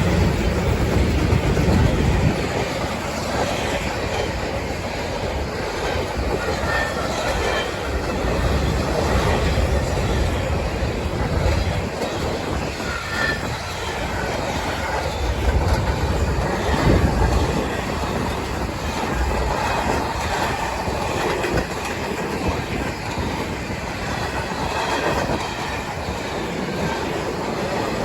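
Railroad cars of a freight train rolling past at track side, with wheels clicking over the rail joints, a steady rumble and faint wheel squeal.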